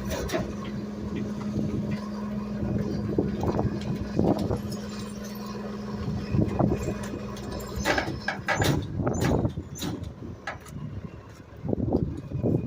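Garbage truck running with a steady low hum that stops about eight seconds in, with knocks and clatters of trash landing in the hopper, loudest in a burst of bangs near the end.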